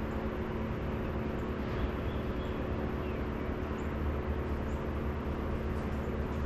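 Steady background rumble and hum with no clear events, plus a few faint, short high chirps.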